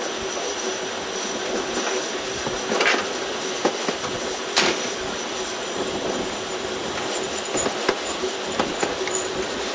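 Harz narrow-gauge railway train running on its rails, with a steady rolling noise and a thin high whine. Sharp clicks from the wheels come about three and four and a half seconds in, and a quicker run of them comes near the end.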